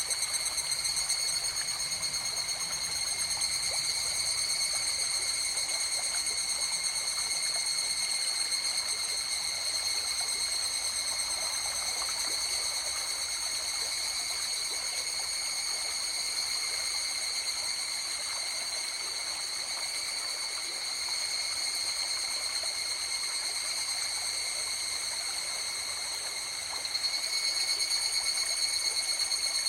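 River water flowing steadily, with a continuous high-pitched trilling chorus ringing over it without a break.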